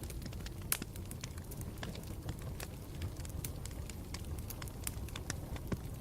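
Campfire burning with irregular sharp crackles and pops over a steady low rumble of the flames, one louder pop less than a second in.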